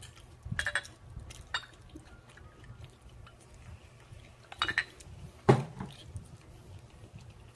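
Eating sounds: a few short clicks and smacks of chewing and utensils, the loudest about five and a half seconds in.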